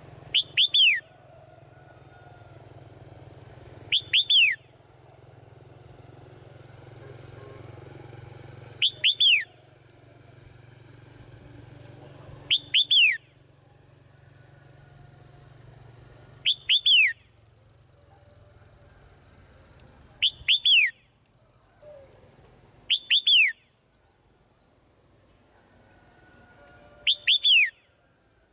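Swallow calls: a short chirp of two or three quick notes that fall in pitch, repeated about every four seconds, eight times in all, over a faint steady low hum.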